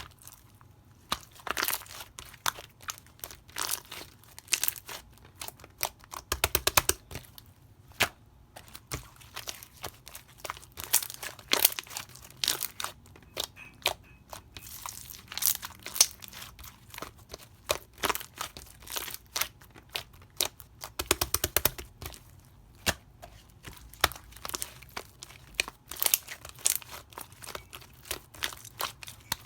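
Orange slime being pressed and stretched by hand, giving a run of sharp crackling clicks and pops, with dense bursts of quick pops about six seconds in and again about twenty-one seconds in.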